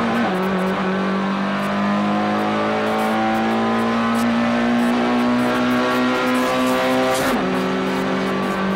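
Race car engine heard from inside the cabin, pulling hard in one gear with its pitch rising steadily. About seven seconds in there is a quick upshift: the pitch drops sharply and the engine carries on pulling.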